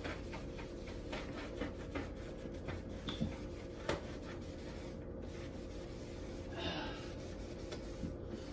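A dish rag scrubbing the inside of a refrigerator, a run of short, irregular rubbing strokes.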